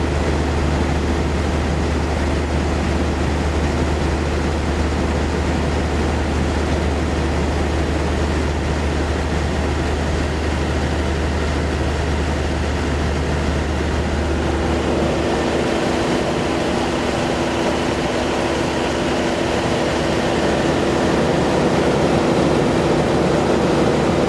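Steady running of vehicle engines, with a low hum that stops about fifteen seconds in while a higher steady drone carries on.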